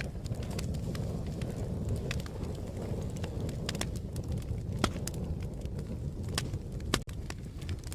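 Crackling fire: a steady low rumble of flames with irregular sharp pops and snaps, two louder pops about five and seven seconds in.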